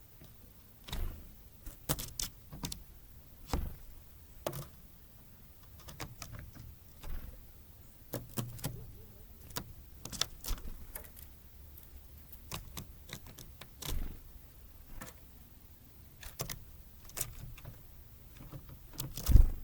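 Irregular sharp taps and clicks, with a few dull thumps, from great tits and blue tits landing on and pecking at a bird feeder; the loudest thump comes near the end.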